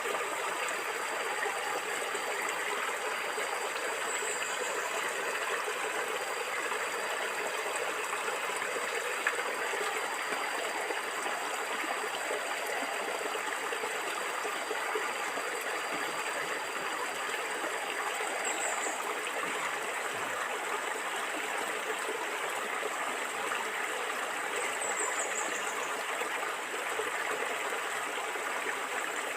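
Water flowing and gurgling steadily in a stream, with three brief high chirps over it.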